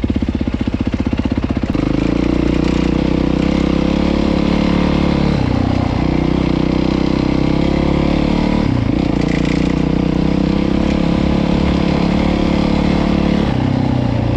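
Dirt bike engine running under throttle. The note steps up about two seconds in, dips briefly twice in the middle, and eases back near the end.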